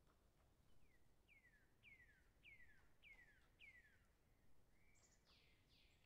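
Near silence with a faint bird calling: a run of about six short chirps, each falling in pitch, then a different, higher falling call near the end.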